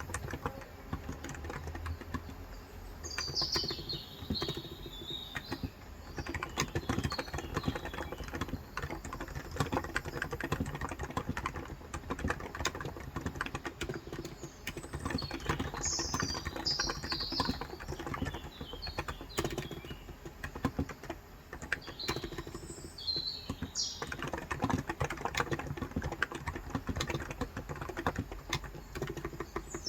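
Steady typing on a COX Endeavor electrostatic-capacitive (non-contact) 35 g tenkeyless keyboard. Birds chirp in short spells over it, about three seconds in, around fifteen seconds, after twenty-two seconds and again near the end.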